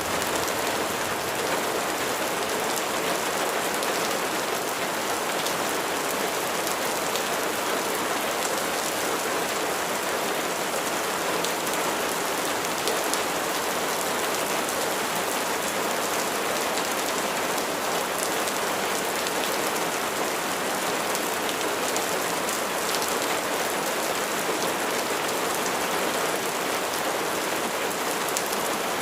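Steady rain falling on a surface, an even hiss with scattered faint patters of individual drops.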